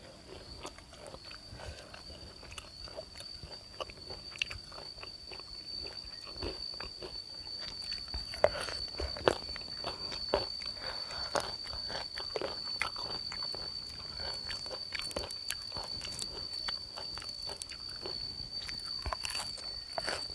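Close-up crunching and chewing of crispy pork belly and fresh raw vegetables, with two sharp loud crunches about eight and nine seconds in, over a steady high-pitched whine.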